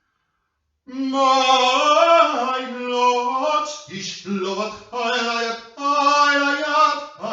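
A single voice singing slow, held notes without accompaniment, starting about a second in.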